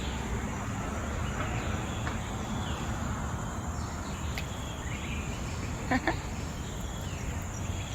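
Outdoor nature ambience: a steady high insect chirring over a low, even background noise, with faint bird chirps now and then and one brief, louder call about six seconds in.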